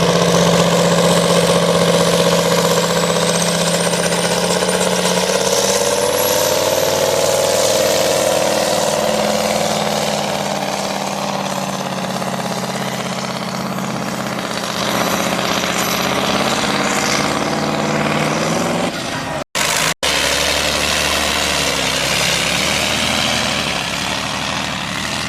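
Tractor-pulling tractor's engine running hard and steadily, its pitch rising slightly over the first several seconds and then holding, with a faint high whine climbing early on. The sound cuts out twice for an instant about three-quarters of the way through.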